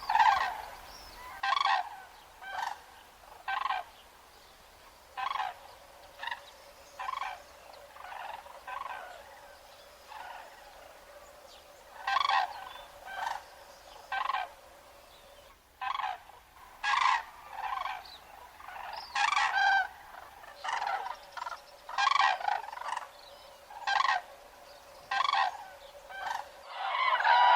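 Cranes calling: short trumpeting calls repeated about once a second, with a few brief pauses, over a faint steady hum.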